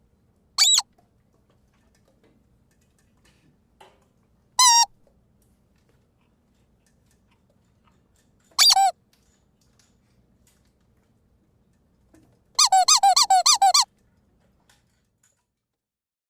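Rubber squeaky dog toy being squeezed: three single squeaks a few seconds apart, then a quick run of about nine squeaks in a row.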